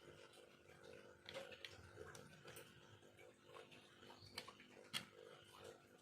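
Faint, scattered sharp clicks and light scrapes of a small knife working bamboo, over a steady low hum; the sharpest click comes about five seconds in.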